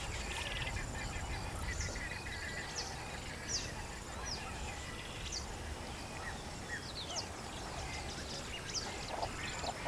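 Birds calling: many short, high chirps, each falling in pitch, repeated every half second or so over a steady low background hum of outdoor noise.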